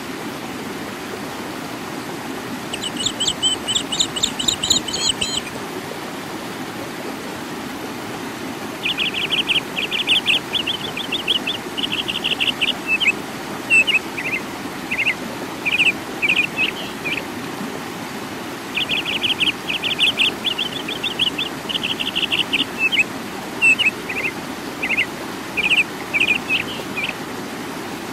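A songbird singing over the steady rush of a rocky stream: a short trill about three seconds in, then the same longer song twice, a fast trill followed by separate chirps, about ten seconds apart.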